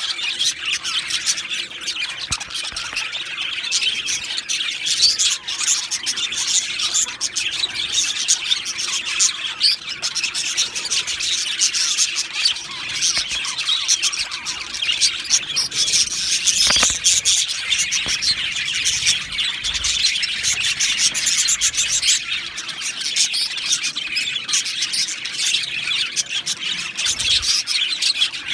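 Male budgerigars chirping and chattering without a break, a dense run of quick, high calls.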